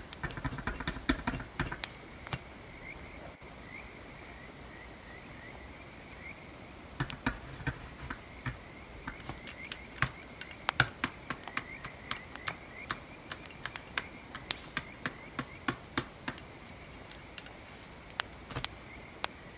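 Campfire crackling: sharp, irregular pops and snaps, sparse for a few seconds and then frequent, over a faint high whistle with small rising chirps.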